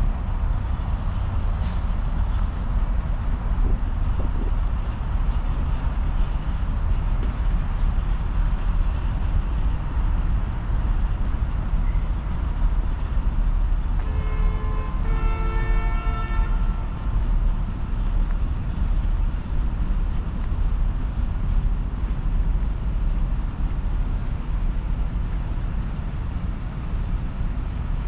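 Steady low rumble of city traffic mixed with wind buffeting the microphone. About halfway through, a vehicle horn toots briefly in a few short, stepped tones.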